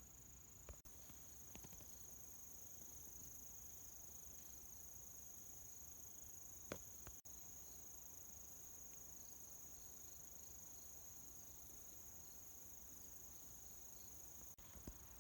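Faint, steady high-pitched chorus of autumn crickets, with a few soft clicks about a second in, near the middle and near the end.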